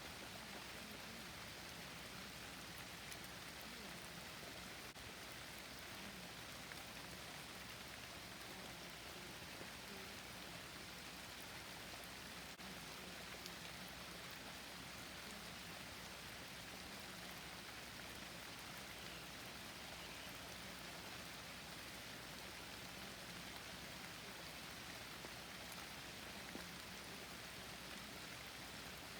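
Steady rain falling on foliage and surfaces, an even patter of drops with no letup.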